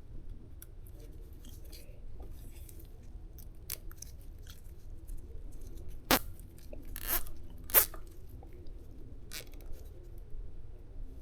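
Plastic zip ties being handled and fastened around an e-bike's cable: scattered small clicks and rustles, with two sharper clicks about six and eight seconds in.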